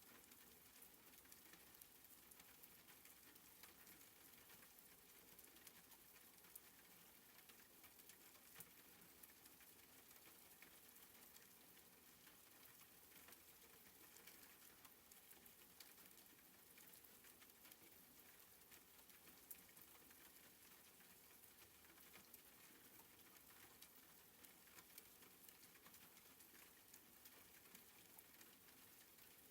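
Faint, soft rain pattering: an even hiss sprinkled with many tiny drop ticks.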